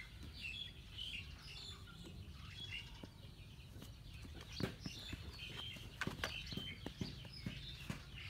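Small birds chirping repeatedly in short calls. From about halfway on come scattered sharp clicks and knocks of plastic toy trucks being handled.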